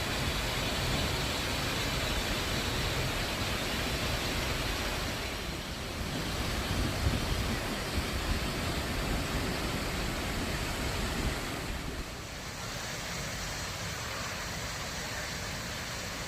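Swollen mountain stream rushing over rocks after heavy rain, a steady dense rush of water. The level drops slightly about twelve seconds in.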